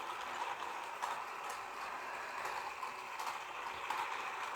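Toy train's small electric motor and gears running with a steady whir and faint irregular ticks.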